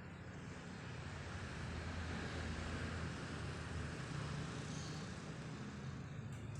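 Daikin FTV50CVX14 split air conditioner running: a steady low hum under a rushing airflow hiss that swells over the first couple of seconds and then drops back sharply near the end.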